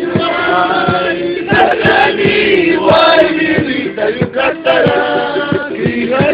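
A group of voices singing together in chorus over a steady thudding beat of about two to three strokes a second.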